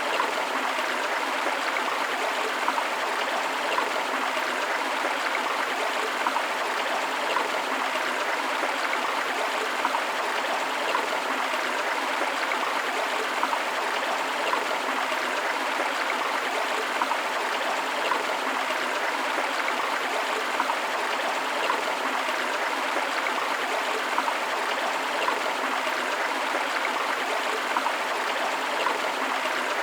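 Forest river flowing over rocks, a steady rush of water with small splashes and gurgles throughout.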